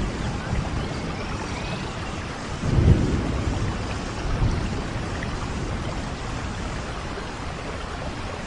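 Steady rain with low rumbles of thunder, one rumble swelling louder about three seconds in.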